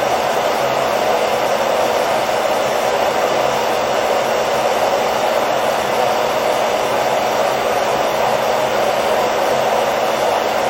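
Hair dryer blowing: a steady, unchanging rush of air over a low motor hum, played as white noise for getting a baby to sleep.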